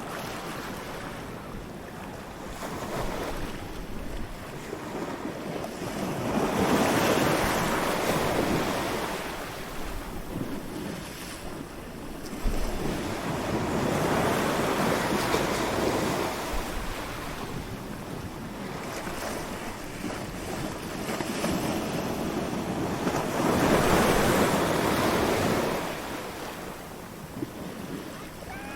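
Ocean waves washing onto a beach, the surf swelling and falling back in slow surges about every eight to ten seconds.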